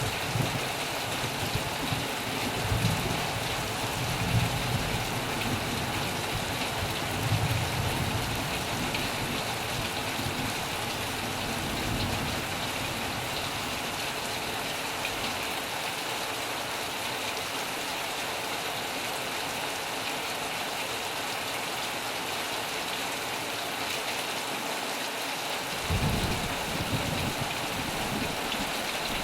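Heavy rain falling steadily on a metal roof, with low rumbles of thunder through the first several seconds, a short one about twelve seconds in, and another near the end.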